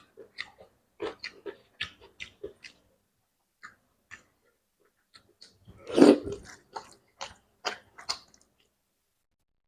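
Close-up eating sounds: a person chewing fish curry, with a quick run of short wet lip smacks and mouth clicks and one louder, longer smack about six seconds in.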